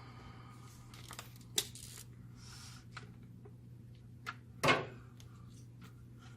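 Copier fuser parts being handled and fitted by hand: scattered light clicks and knocks, with one louder clunk a little before five seconds in, over a steady low hum.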